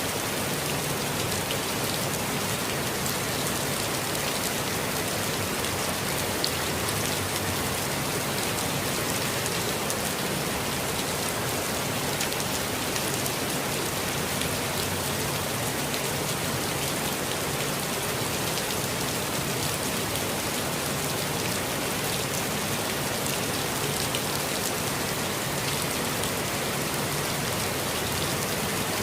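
Steady rain falling and pattering on surfaces, with many individual drops ticking, at an even level throughout.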